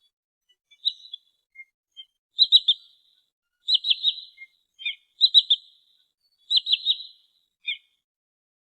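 Sandpiper (trinil sawah) calling: high, sharp notes in quick runs of about three, repeated five times, with single short notes in between.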